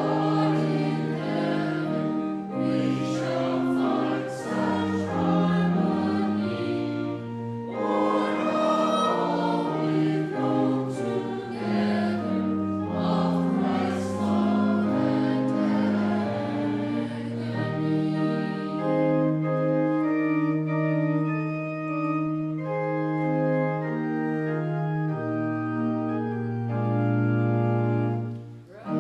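A hymn sung by voices with pipe-organ-style accompaniment, moving in slow held chords. Over the last third the music settles into long sustained chords, easing off briefly near the end.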